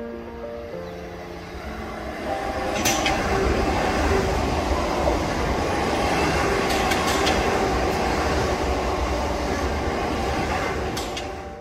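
Southeastern Class 465 Networker electric multiple unit running past close by: a broad rumble of wheels on rail that builds about two seconds in, stays strong, and eases off near the end, with a few sharp clicks from the wheels along the way.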